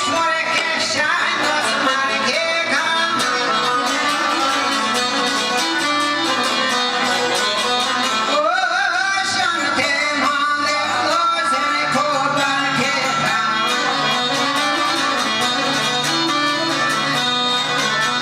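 Albanian folk song music: plucked string instruments and fiddle playing a steady accompaniment, with a melody line that glides in pitch.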